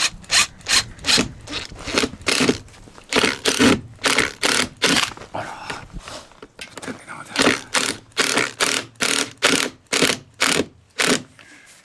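Rhythmic hand-tool strokes scraping across wood, about two to three a second, pausing briefly midway and stopping near the end.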